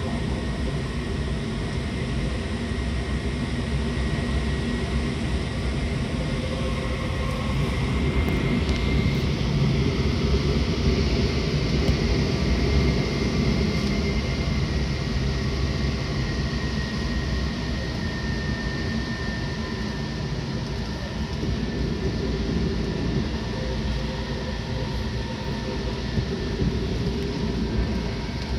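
Seibu 6000 series electric train with Hitachi GTO inverter drive, heard from inside the car while running between stations: a steady rumble of wheels on rail with a faint steady high whine from the drive. It grows louder about a third of the way in and eases off again.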